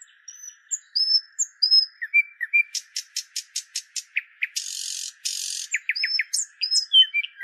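Birds chirping and whistling in quick, varied calls over a steady high insect drone, with two short buzzing bursts about halfway through.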